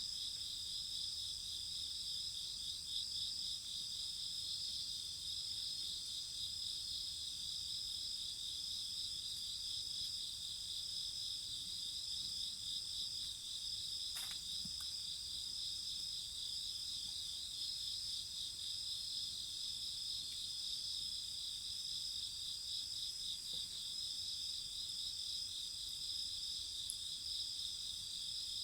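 Crickets chirping in a steady chorus of high, overlapping trills. A single sharp crack stands out about halfway through.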